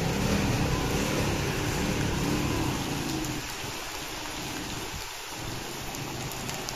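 Heavy rain falling steadily on wet pavement. In the first three seconds a scooter's engine runs at low speed, fading out as it moves away.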